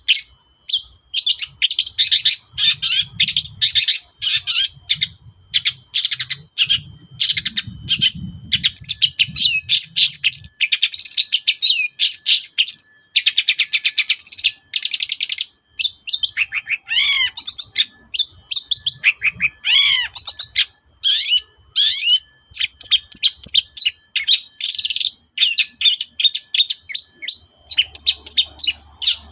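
Long-tailed shrike (cendet) singing a fast, unbroken song of rapid high chirps and trills, with a few downward-sliding whistles past the midpoint. The song mixes in imitations of other birds' calls.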